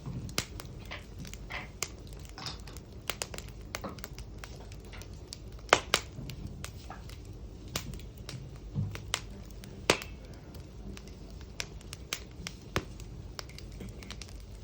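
Campfire crackling: irregular sharp pops and snaps, the loudest about six and ten seconds in, over a low steady rumble.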